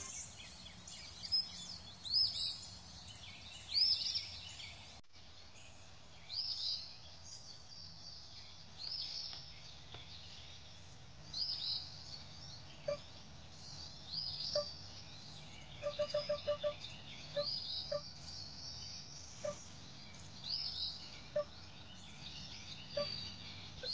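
Birds chirping: short, high calls repeating every second or two, with brief low ticks between them, including a quick run of about six ticks about two-thirds of the way through.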